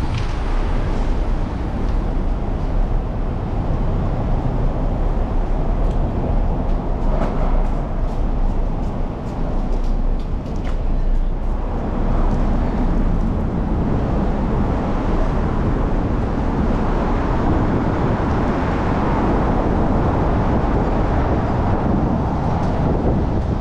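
Wind rushing over the microphone of a moving bicycle, mixed with the steady road noise of city traffic.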